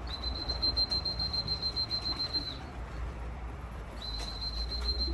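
A high, steady whistle note sounding twice, a long note of about two and a half seconds and then a shorter one, calling racing pigeons down to the loft.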